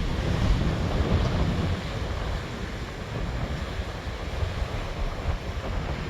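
Squally wind buffeting the microphone in uneven gusts over the hiss of rough sea surf breaking on the shore.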